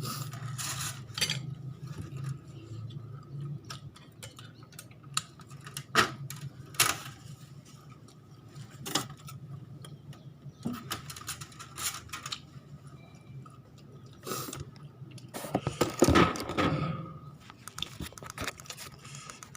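Close-up eating sounds: chewing, with scattered sharp clicks and clinks of cutlery and dishes, and a longer, louder noisy sound about sixteen seconds in.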